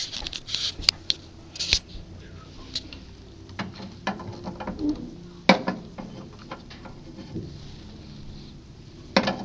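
Irregular small clicks, taps and scrapes of hands working at a furnace's pilot burner while the pilot is being lit, with one sharper click about five and a half seconds in and a few more near the end.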